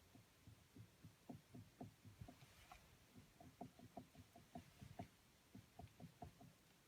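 Soft, irregular clicks and knocks from behind the steering wheel of a 2008 BMW E61 with active steering, engine off, as the wheel is turned slightly. There are several a second and they stop about a second before the end. The clicking is an unexplained fault somewhere behind the steering wheel.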